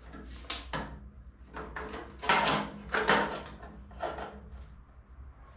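A run of short clanks and scrapes as metal pieces are handled and set in place for welding, about half a dozen over a few seconds, over a steady low hum.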